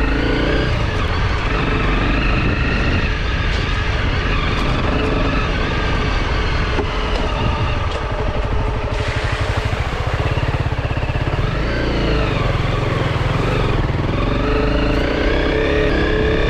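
Honda CRF250 Rally's single-cylinder four-stroke engine running while the bike is ridden, its revs rising and falling with the throttle. About halfway through the revs drop low, then climb again near the end.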